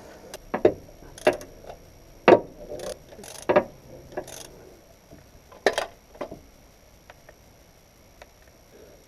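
Hand tools and car parts clinking and knocking while being handled during a clutch job: about a dozen irregular sharp knocks over the first six seconds, then it goes quiet.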